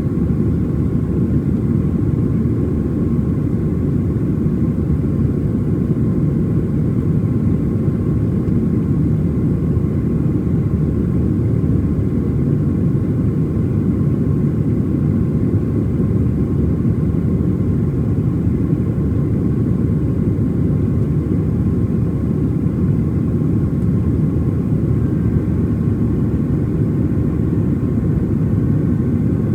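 Steady roar of a Boeing 737-700's CFM56-7B jet engines and the airflow around it, heard inside the passenger cabin: an even, low rumble with a faint high whine over it that does not change.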